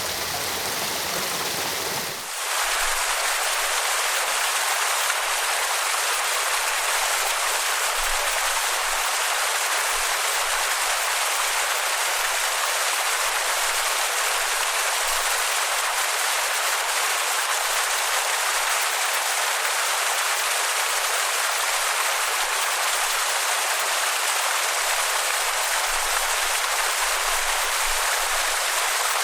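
Waterfall water rushing in a steady, even hiss. About two seconds in the sound shifts abruptly, losing its low rumble and becoming a brighter hiss.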